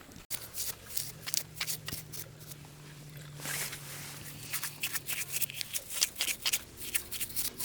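Rapid, irregular scraping and scratching strokes, like hand work on a surface, over a faint steady low hum.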